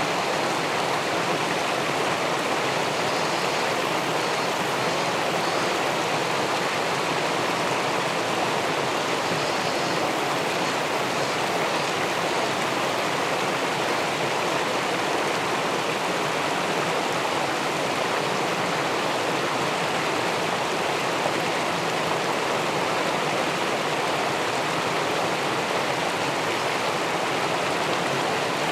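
Steady rush of river water in the pool below a weir: a dense, even hiss of flowing and spilling water that does not change.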